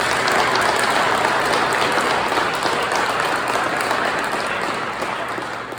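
A room full of people applauding, swelling at the start and tapering off near the end.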